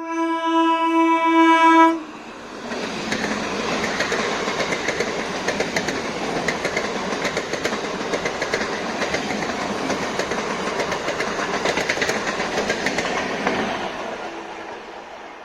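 Horn of a suburban electric local train sounding one steady tone that cuts off about two seconds in, then the train running past with continuous wheel and rail clatter that fades away near the end.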